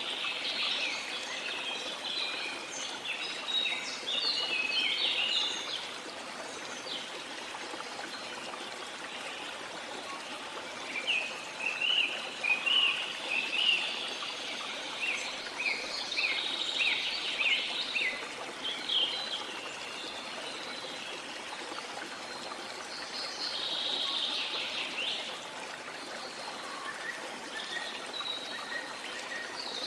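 Birds chirping in quick clusters, coming in bursts a few seconds long with quieter gaps, over the steady rush of a waterfall.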